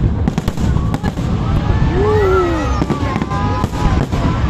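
Fireworks bursting in a dense barrage, many overlapping cracks and booms over a continuous low rumble. About two seconds in, a voice calls out in one drawn-out exclamation that rises and falls.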